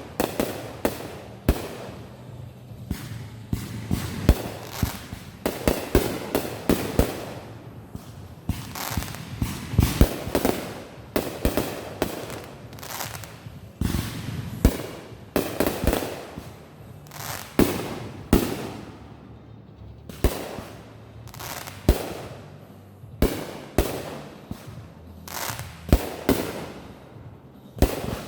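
Consumer fireworks going off in quick succession: sharp bangs, often one or two a second, with crackling between them.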